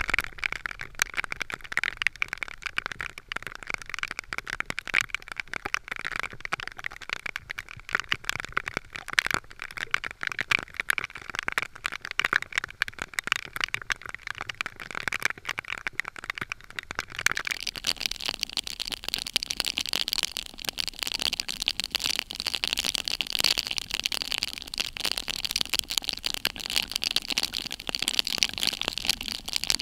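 Heavy rain pattering, a dense crackle of drops, growing louder and brighter about seventeen seconds in.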